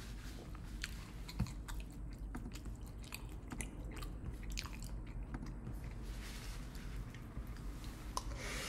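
A person chewing a mouthful of steak burrito bowl close to the microphone: a steady run of small wet mouth clicks, with one dull thump about a second and a half in.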